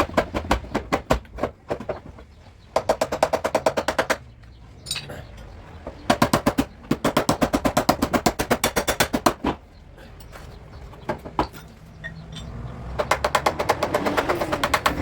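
Rapid metal tapping on a car body panel, about nine light hammer strikes a second, in several runs with short pauses between.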